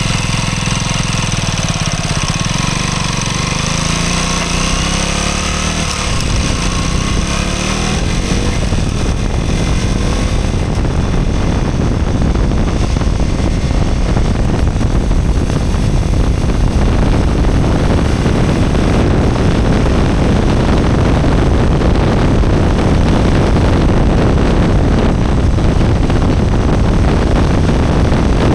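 Husqvarna Svartpilen 200's single-cylinder four-stroke engine under way, its pitch rising over the first several seconds as the bike accelerates. After that the engine is largely buried under a steady rush of wind on the microphone, which grows a little louder toward the end.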